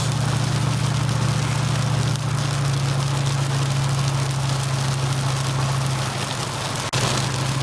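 Heavy rain pounding on a truck's roof and windshield, an even hiss, over the steady low hum of the truck's running engine.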